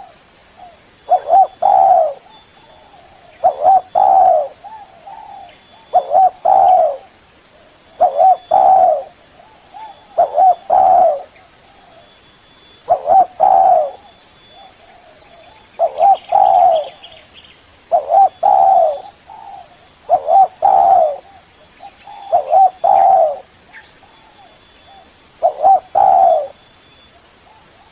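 Spotted dove (Spilopelia chinensis) cooing its phrase over and over, about eleven times, a short phrase every two seconds or so.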